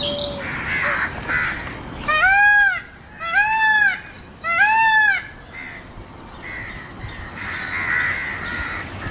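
Indian peafowl calling: three loud, arched, honking calls about a second apart.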